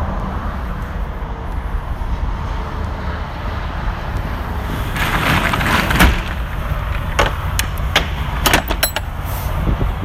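Ford E350 cube van engine idling steadily, with a rushing hiss about five seconds in and then a scatter of sharp clicks and knocks.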